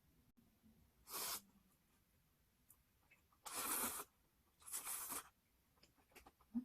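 Close-miked eating sounds: three short, noisy slurps as jjajang ramen noodles are sucked in, about a second in and twice more around the fourth and fifth seconds.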